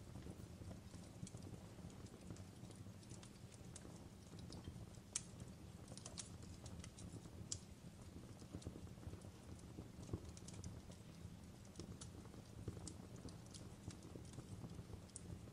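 Wood fire crackling faintly: irregular snaps and pops over a low, steady rumble, with a small cluster of sharper pops about five to seven seconds in.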